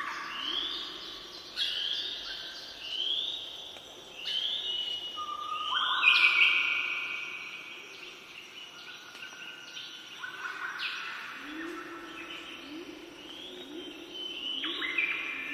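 Songbird singing: a run of short, clear notes, each sweeping upward in pitch, repeating about every three-quarters of a second. The song peaks about six seconds in, then turns into softer, more tangled phrases.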